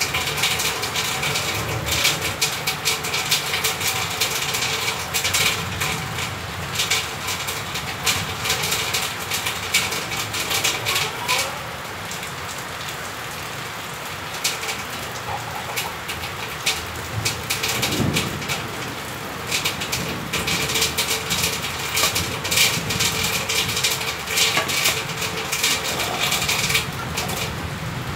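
Steady rain pattering on a hard surface, a dense run of crackling drops that eases for a few seconds in the middle.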